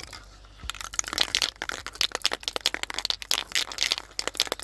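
Aerosol spray-paint can being shaken, its mixing ball rattling in quick, irregular strokes several times a second, starting just under a second in.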